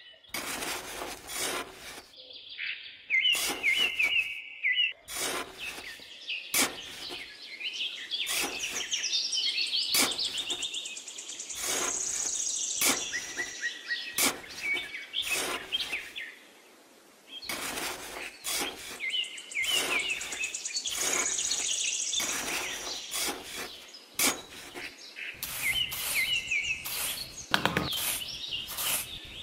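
Small metal hand trowel scraping and digging into sand in quick, repeated strokes, with birds chirping and trilling in the background.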